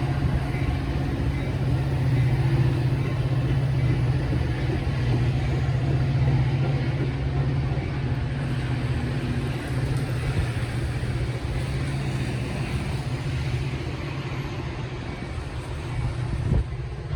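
Passing diesel train: a steady low engine drone over rolling noise, slowly fading, with a short bang and an abrupt drop near the end.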